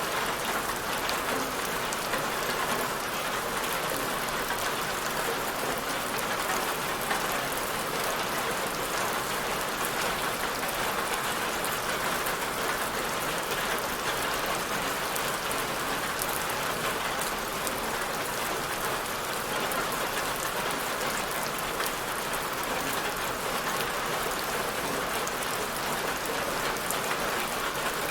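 Steady rain falling on a surface, an even patter of many drops with faint individual drop ticks.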